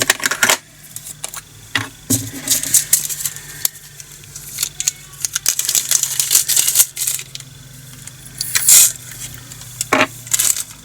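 Small plastic diamond painting drills rattling and clicking as they are handled and tipped among plastic bags and storage containers, in irregular sharp clicks with a longer rattle near the end.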